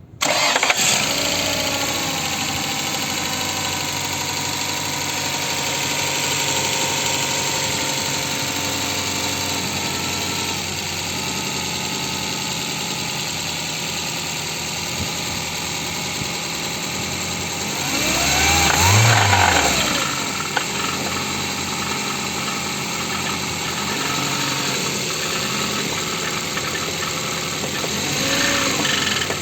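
Ford engine starting and then idling with a knock, which is the fault being shown. About two-thirds of the way through it is revved once, rising and falling in pitch, with a smaller blip near the end.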